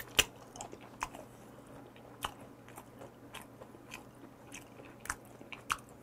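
A person chewing raw deep-sea shrimp with the mouth close to the microphone: irregular sharp mouth clicks and smacks, the loudest just after the start.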